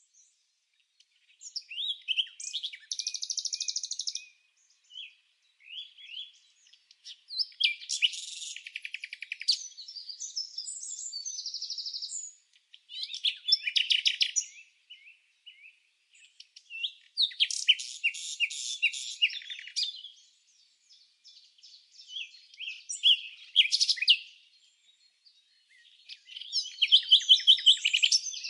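A songbird singing: bouts of rapid chirps and trills, each lasting one to three seconds, with short silent pauses between them.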